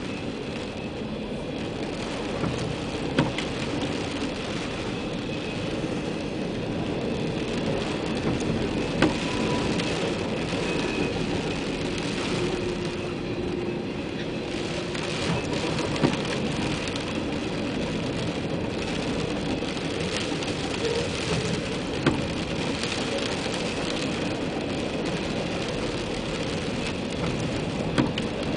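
Freight cars rolling past on the rails, a steady rumble of wheels on track heard from inside a car, with a sharp clack about every six seconds.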